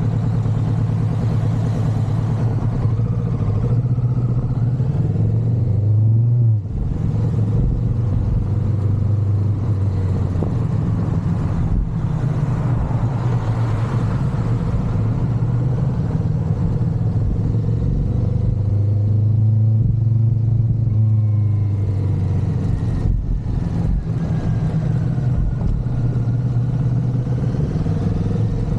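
Motorcycle engine running steadily while riding, its note dropping briefly about six and a half, twelve and twenty-three seconds in.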